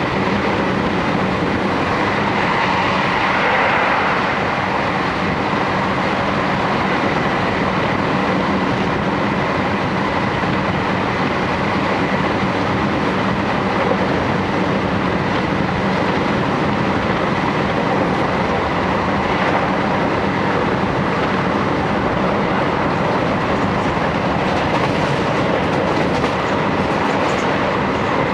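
Steady running noise of a JR Hokkaido Series 711 electric multiple unit, heard from inside the passenger car: wheels rolling on the rails at speed, with a faint steady tone running through it.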